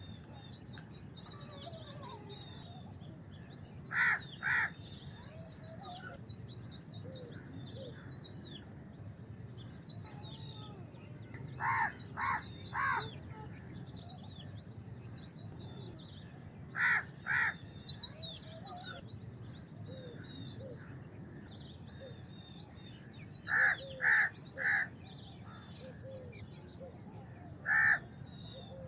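House crows cawing in short runs of two or three harsh caws every few seconds, with a single caw near the end. Small birds twitter high and continuously underneath.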